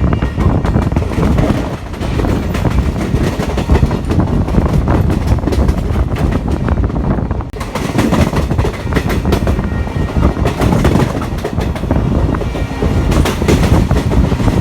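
Passenger train running, heard from on board: a steady rumble of wheels on rails with a dense clickety-clack over the rail joints. It turns brighter and hissier about halfway through.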